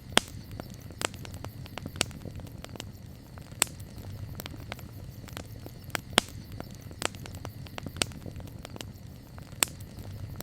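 Wood campfire crackling: irregular sharp pops and snaps, a few louder than the rest, over a low steady rumble of the burning fire.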